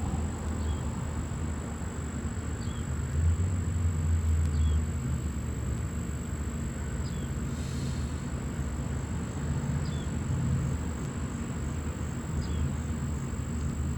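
Outdoor ambience: a steady low rumble with a thin, steady high whine over it, and a short falling chirp that repeats every two seconds or so.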